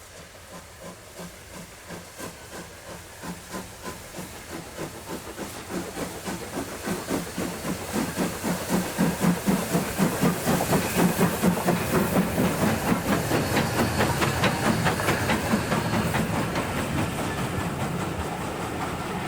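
Steam locomotive working under power and approaching, its chuffing exhaust beats growing steadily louder and coming quicker, from about two a second to three or four, with hiss of steam.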